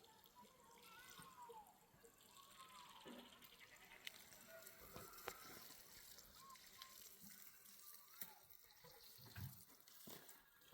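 Faint irrigation water trickling and running, with a few short, faint calls and small clicks over it.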